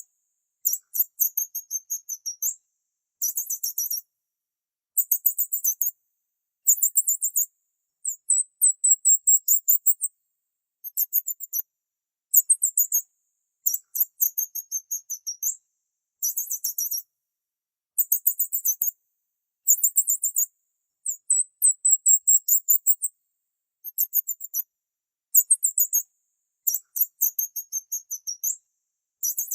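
Small bird chirping: very high-pitched phrases of rapid chirps with short gliding notes, each about a second long, repeated again and again with brief silent gaps.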